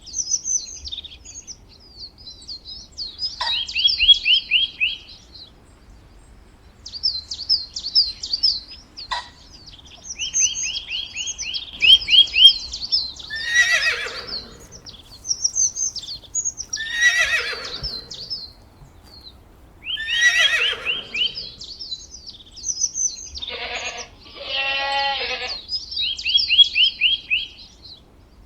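Goats bleating, with several long falling calls and one wavering bleat near the end, amid rapid runs of high chirping.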